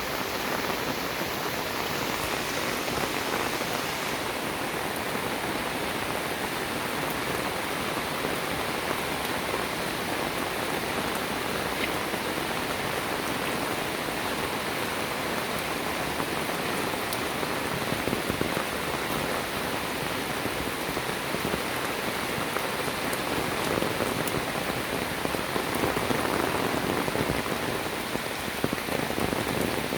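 Steady rain falling and pattering on surfaces, growing a little heavier near the end.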